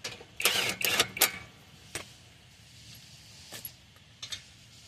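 Short bursts of metal rattling and scraping about half a second in, from a wheel being fitted onto the hub's studs, followed by a sharp click and a few fainter clicks.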